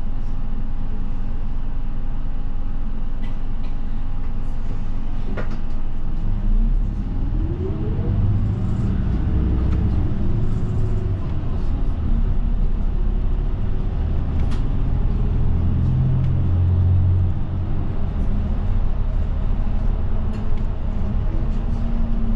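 Route bus engine heard from inside the cabin: idling steadily, then about six seconds in revving up with a rising pitch as the bus pulls away, and running on under load with the pitch rising and falling.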